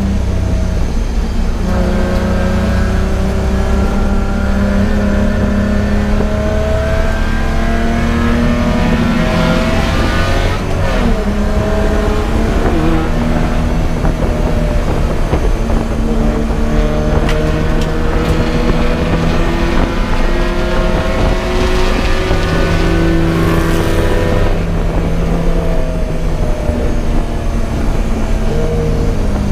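Race car engine running hard, its pitch climbing through each gear and dropping back at the shifts and under braking, several times over.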